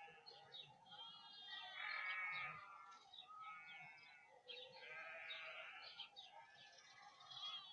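A distant flock of sheep bleating, many voices overlapping in a continuous chorus, with louder calls about two seconds in and about five seconds in. The ewes are in labour, dropping their lambs.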